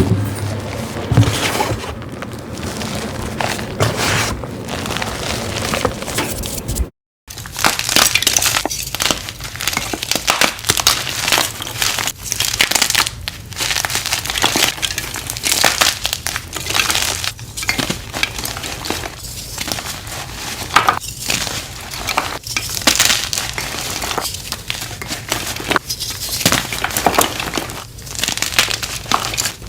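Dyed gym chalk blocks being crushed by hand: dense, crunchy crackling and crumbling, stroke after stroke. A brief moment of silence comes about seven seconds in, and the crunching after it is busier and brighter.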